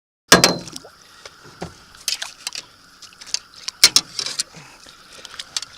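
Irregular sharp knocks and clicks from handling in a small boat, starting abruptly after a moment of silence, over a faint steady hum.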